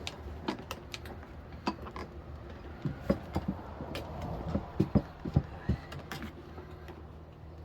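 Irregular metal clicks and knocks of a tire iron working a tire bead over the wheel rim on a manual tire changer, over a low steady hum.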